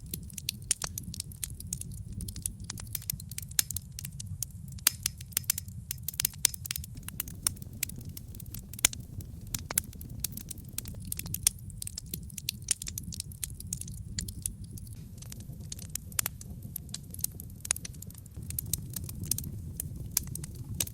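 Wood logs burning in a fireplace: dense, irregular crackling and popping over a steady low rumble of the flames.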